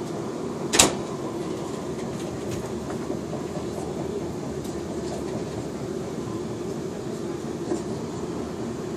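Steady rumble of a moving train heard from inside the carriage, with a sharp knock a little under a second in and a fainter one near the end.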